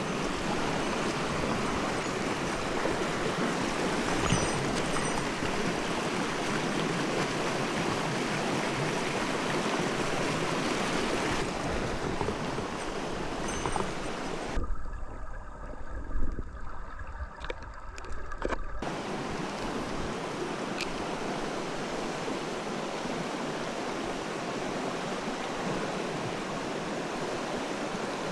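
Mountain stream rushing steadily over rocks. About halfway through, the water sound turns muffled for around four seconds, with a low rumble and a few thumps, then returns.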